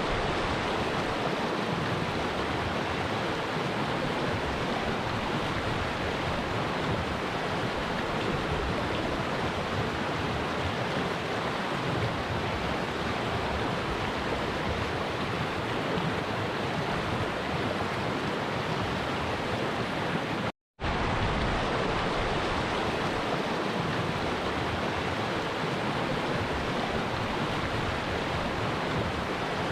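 Steady rushing of a flowing stream's water, cut off by a sudden split-second silence about two-thirds of the way in before it resumes.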